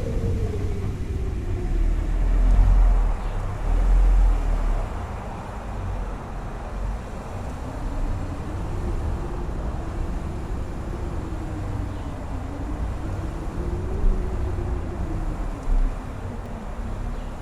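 Strong mountain-top wind howling: a whistling tone that slowly rises and falls over a deep rumble of gusts buffeting the microphone, the gusts strongest a few seconds in.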